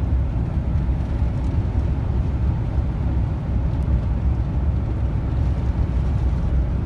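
Steady low rumble of a long-haul truck's engine and tyres on the road, heard from inside the cab while driving.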